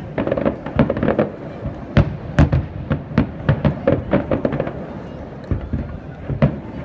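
Aerial firework shells bursting in an irregular volley, sharp bangs a few a second. The loudest bang comes about two seconds in, and the bangs thin out briefly before picking up again near the end.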